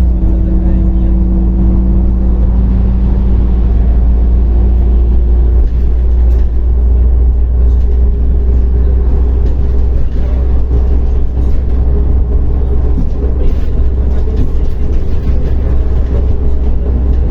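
MAZ-105 articulated city bus under way, heard from inside the cabin: its diesel drivetrain runs with a heavy, steady low rumble. A humming whine fades out a few seconds in, and a higher whine rises slightly later on.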